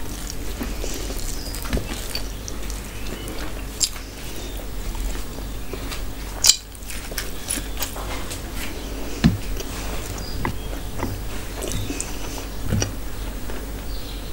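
Close-miked eating sounds: a person chewing a mouthful of food eaten with the fingers, with scattered wet mouth clicks and smacks. One sharper, louder click comes about six and a half seconds in.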